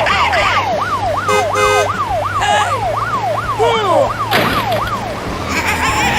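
Siren yelping, rising and falling about twice a second until it stops about five seconds in. A short beeping tone sounds about a second and a half in, and a sudden thump about four seconds in.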